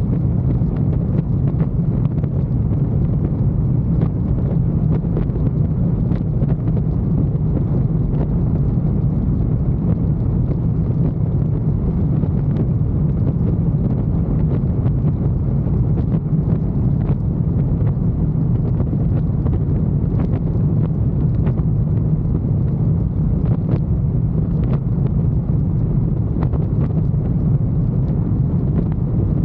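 Motorcycle riding at a steady speed: wind rushing over the microphone on top of a steady low engine sound.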